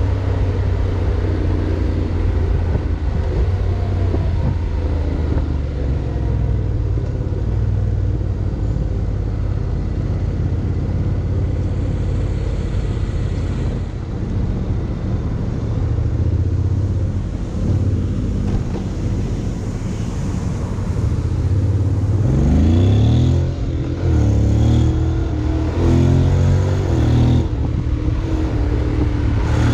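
Honda X-ADV 750's parallel-twin engine running under way, with wind and road noise. From about 22 seconds in, it accelerates and the engine note rises several times in a row.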